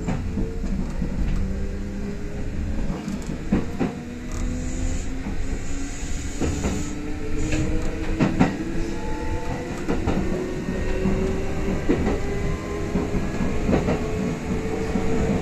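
Kintetsu express electric train pulling away and picking up speed, heard from inside the front car: the traction motors' whine climbs slowly in pitch over a low running rumble. Wheels click over rail joints now and then.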